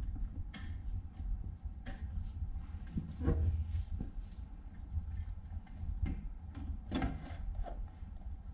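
Scattered light knocks and rubbing as exhaust tubing is handled and test-fitted, over a low steady rumble.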